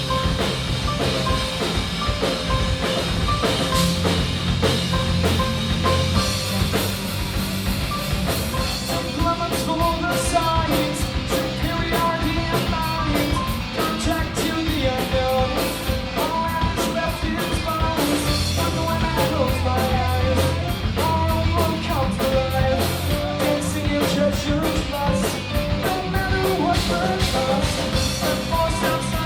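A four-piece rock band of keyboards, bass, guitar and drums playing live. A steady hi-hat or cymbal beat comes in about nine seconds in.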